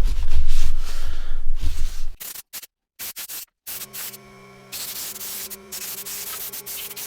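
Brisk rubbing and scrubbing on a phone's body shell during cleaning, with heavy rumbling handling noise, stopping after about two seconds. A faint steady hum follows.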